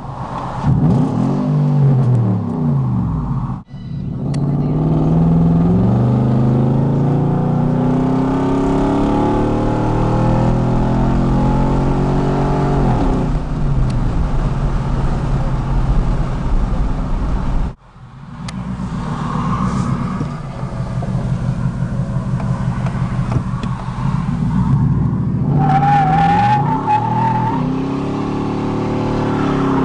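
Nissan Titan's 5.6-litre V8 through true dual single-chamber Flowmaster mufflers, heard from inside the cab: a few quick revs, then long rising pulls at full throttle with an upshift partway through, then a hard launch from a stop. The sound cuts out sharply twice where the clips are joined.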